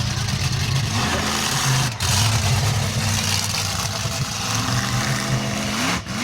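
Bigfoot monster truck engine running loud and low, the revs rising twice. There is a brief drop in sound about two seconds in and again near the end.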